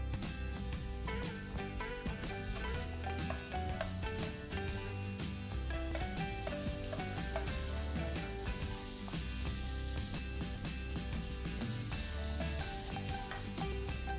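Diced vegetables sizzling in hot oil in a wok, stirred and turned with a wooden spatula; the steady frying hiss runs throughout.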